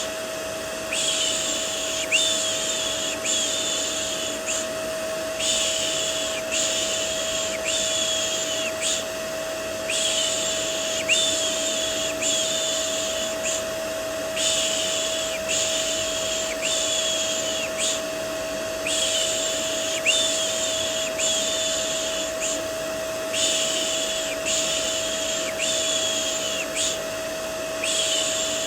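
Vacuum cleaner white noise, a steady motor hum with a constant whine, under a looped 'shh' shushing sound for soothing a baby. The shushes come in runs of about four, each run a few seconds long, with a short pause between runs.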